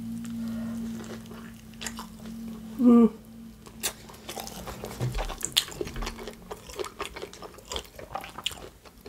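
Close-miked chewing of a bite of Hawaiian pizza: wet mouth clicks and crust crunching. There is a short hummed voice sound about three seconds in, and a low steady hum through the first half.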